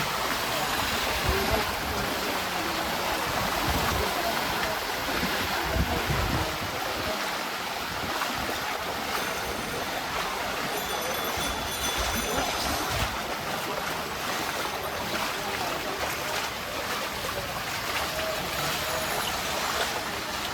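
Floodwater splashing and rushing in a flooded street: a steady watery noise with a few dull low thumps.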